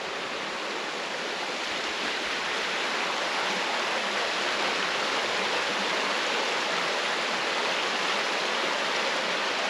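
The Yellow Dog River flowing under a bridge: a steady, even rush of water that swells a little over the first couple of seconds and then holds.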